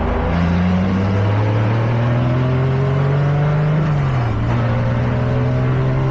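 Race truck engine heard from the onboard camera, pulling up through the revs under load. About four seconds in, the pitch drops quickly as it shifts up, then it climbs again.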